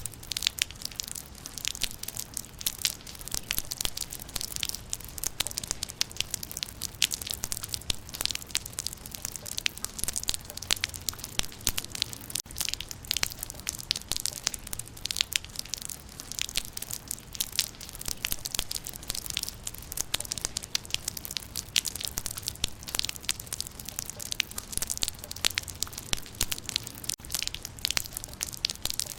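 Rain falling on leaves: a dense, steady patter of countless small, crisp drop impacts, with a faint low rumble underneath.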